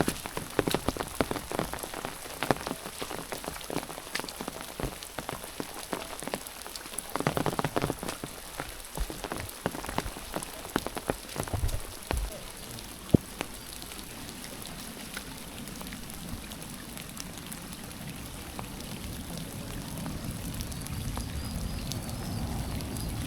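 Rain falling, with many irregular sharp drop taps through the first half and a steadier hiss after that.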